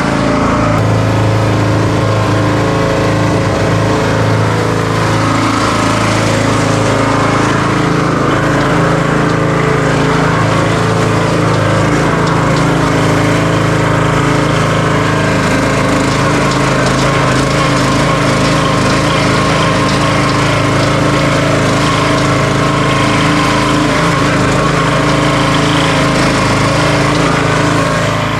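A small gasoline engine running steadily at a constant speed, such as on concrete-finishing equipment.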